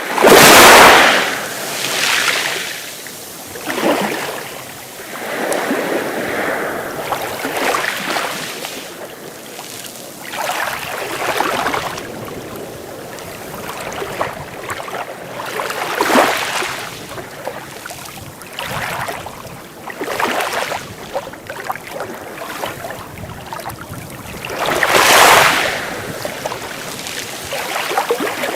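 Sea waves breaking and washing in, one surge of hissing water after another every few seconds, the largest right at the start and another near the end.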